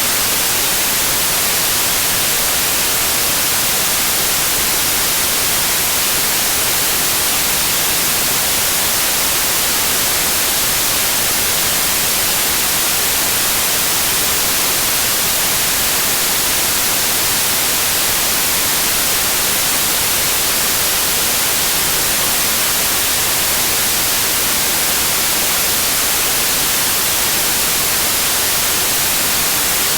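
Steady white noise: an even, unchanging hiss, strongest in the treble, with no breaks or changes.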